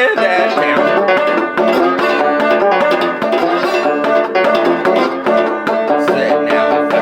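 Six-string banjo-guitar (guitjo) played clawhammer style with a slide: a fast, continuous stream of plucked and brushed notes in a driving Delta blues riff, with a few notes slid in pitch.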